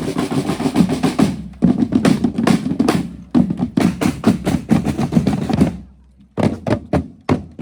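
Marching band drums, snare and bass drum, playing fast, dense drumming that stops about six seconds in, followed by a few separate sharp hits.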